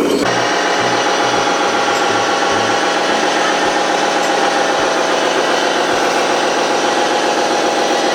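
A small motor running steadily, with a mechanical whine and some rattle. It cuts in abruptly a split second in.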